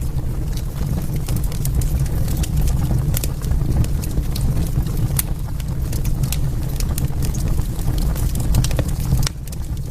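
Wood fire burning in a fireplace: a steady low rumble of flames with frequent sharp, irregular crackles and pops from the burning logs. The fire turns a little quieter near the end.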